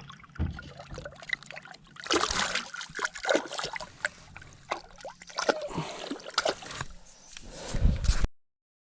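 Water splashing and sloshing beside a small boat in irregular bursts, loudest from about two seconds in, with a faint steady low hum underneath; the sound cuts off suddenly near the end.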